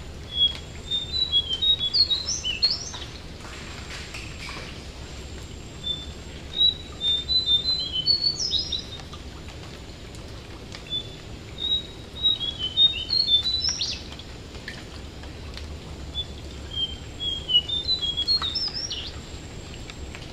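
Jongkangan bird singing: four phrases of quick, high chirping notes, each ending in a short rising sweep, coming roughly every five seconds over a steady faint background hiss.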